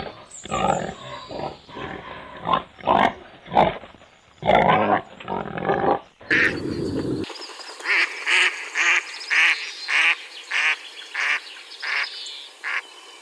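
Animal calls in two stretches. For about six seconds there are irregular calls that reach down low. Then, after an abrupt change, comes a run of short, higher calls, about two a second.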